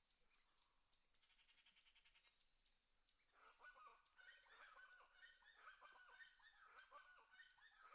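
Faint birds calling: many short rising-and-falling calls, repeated densely, begin about three seconds in over a steady high hiss.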